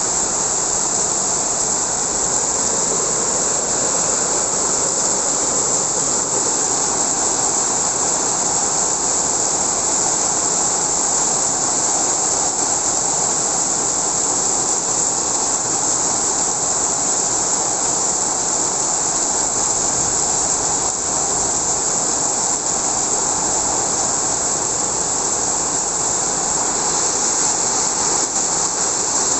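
Heavy rain pouring down in a storm with strong wind, a steady, unbroken roar with a bright hiss.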